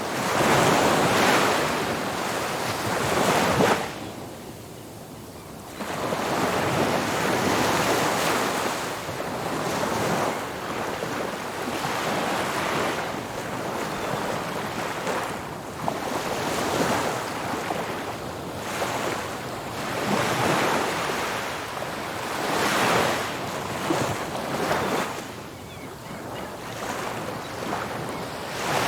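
Ocean surf: waves breaking and washing up the beach in repeated surges, with a short lull about four seconds in before the next wave comes in.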